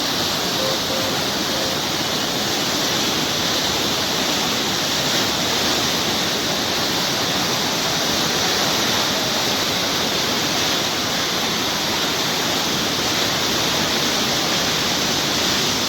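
River water rushing steadily, with no breaks or changes: a seasonal wadi running again after rain.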